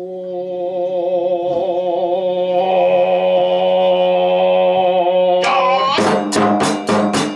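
Kagura music: a long held chanted note with a slightly wavering pitch, then from about five and a half seconds in, fast drum and cymbal strikes, about four a second.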